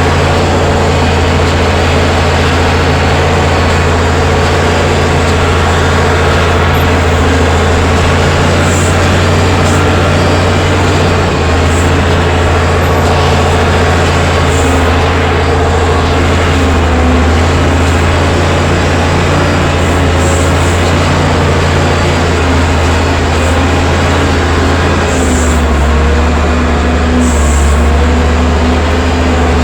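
Allis-Chalmers 940 wheel loader's diesel engine running steadily, its pitch shifting a few times as the engine speed changes.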